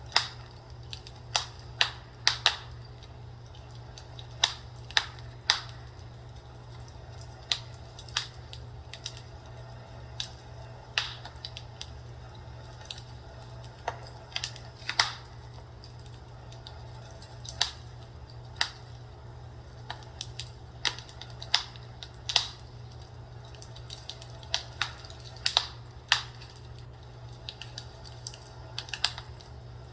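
Fireplace crackling: irregular sharp pops and snaps of burning wood, one to three a second, over a steady low hum.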